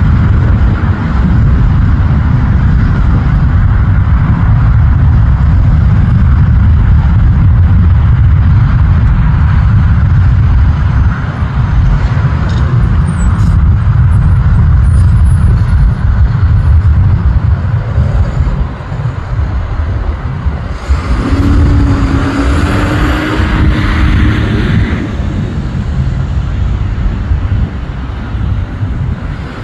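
Small jet on landing approach: a loud, steady low rumble of its engines, then about 21 seconds in a steady hum and a rising high whine come in and fade a few seconds later.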